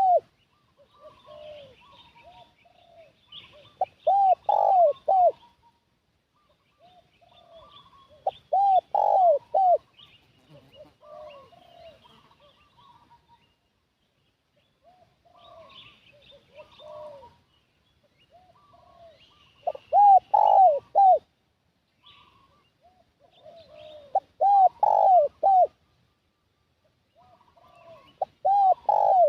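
Spotted dove (tekukur) cooing as a lure call: loud phrases of three or four rounded coos repeated every four to five seconds, with softer coos in between and a longer pause in the middle.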